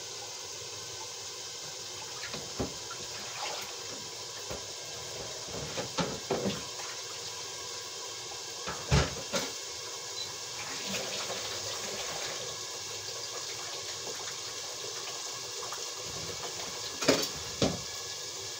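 Chicken liver and potatoes frying in a wok over a gas burner, a steady sizzle, with a few sharp knocks of a utensil against the wok, the loudest about nine seconds in and near the end.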